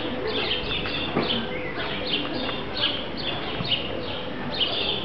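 Small birds chirping: a steady string of short, high chirps, several a second, each dropping in pitch.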